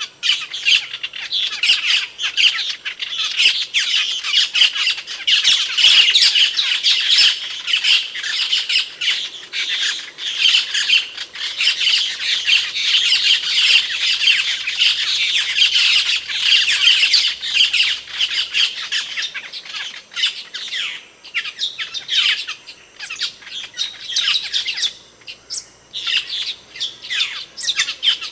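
Asian glossy starling (cucak keling) calls: a dense, rapid stream of sharp, high calls that thins to sparser calls about two-thirds of the way through.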